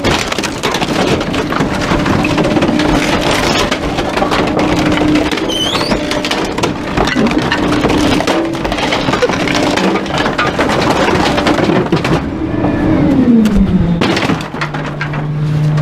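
Trash truck running with a steady engine hum under dense crackling and cracking noise. Near the end the engine note falls in pitch and settles lower.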